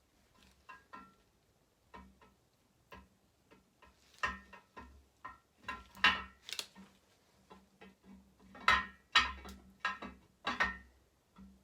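Camshaft being fed by hand through the cam bearings of a Chevy V8 block: irregular metal clicks and clinks as its lobes and journals touch the bearings, with a few louder knocks about six seconds in and a cluster of them near the end.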